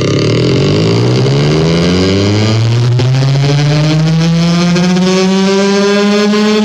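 A 'sound kompor' noisemaker howling loudly. It holds one rich pitched tone that rises slowly and steadily in pitch, like a siren winding up.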